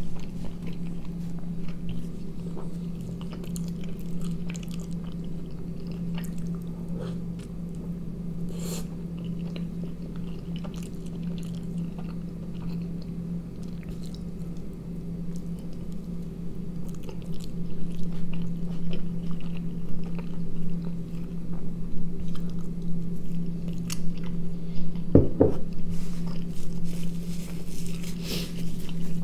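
A person biting and chewing a flatbread snack roll with a sausage filling close to the microphone, with small moist clicks of chewing over a steady low hum. Two low knocks come a few seconds before the end, then a short burst of sharper clicks.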